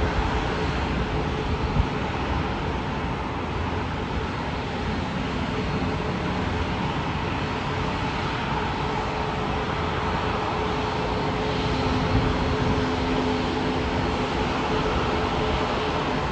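Jet airliner engines running: a steady, even rush of noise with a steady whine in it, and a second, lower tone that comes in about eleven seconds in and fades near the end.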